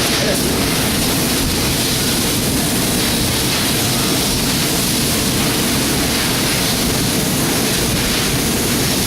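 Steady rushing noise of a Mazak HyperGear 510 CNC laser cutting machine running, with a faint low hum under it.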